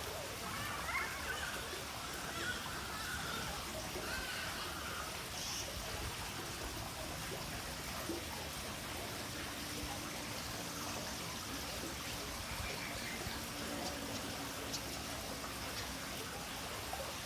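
Faint twittering chirps of swiftlets over a steady rushing hiss, with the chirps mostly in the first few seconds.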